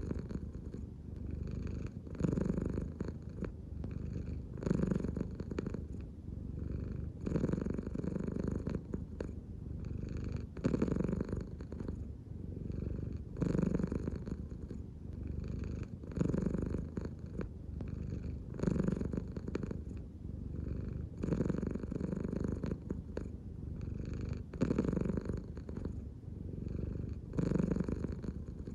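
An American Shorthair cat purring steadily, the purr swelling louder about every two and a half seconds in time with its slow breathing. It is the sound of a relaxed, contented cat.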